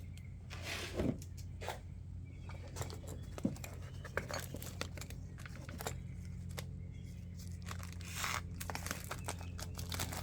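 Crinkling and rustling of material being handled, with scattered small clicks and taps, over a steady low hum.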